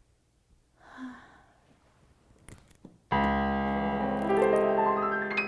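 Electric keyboard comes in suddenly about three seconds in with a held chord, then plays a rising run of notes over it. Before that, a soft breathy sigh about a second in.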